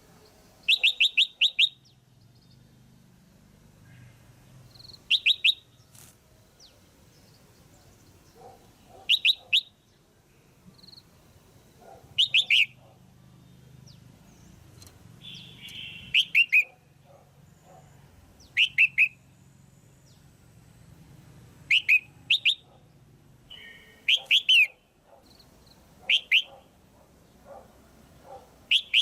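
Female red-whiskered bulbul calling: short bursts of two to four quick, high, down-slurred notes, repeated about every three seconds.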